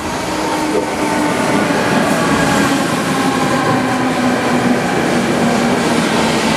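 A freight train running through a station: the locomotive approaches and passes close by with a steady hum that slowly falls in pitch, and its wagons start rolling by near the end.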